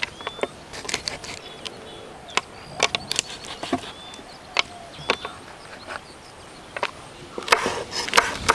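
Irregular sharp knocks and snaps, coming thicker near the end, over a few faint bird chirps.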